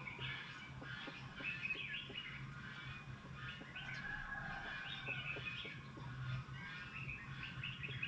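A flock of small birds chirping and twittering continuously, many overlapping short calls, with a low steady hum underneath.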